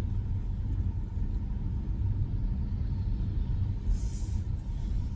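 Steady low tyre and road rumble heard inside the cabin of a 2026 Tesla Model Y electric SUV rolling over a slushy road, with a brief hiss about four seconds in.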